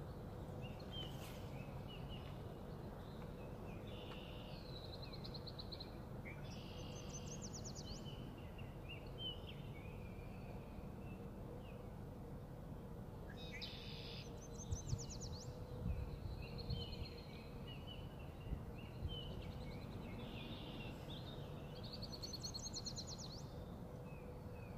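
A songbird singing the same phrase several times, a run of chirps ending in a fast high trill, over a steady low outdoor rumble and a faint steady hum. A few soft low thumps come in the middle.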